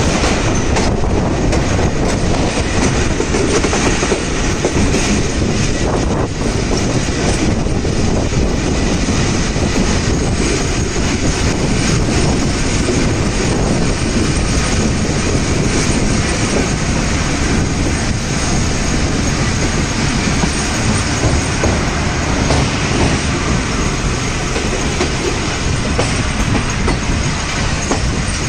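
Moving passenger train heard from an open coach door: a steady, loud rush of running noise with the wheels clattering over the track, clicks clearest in the first few seconds.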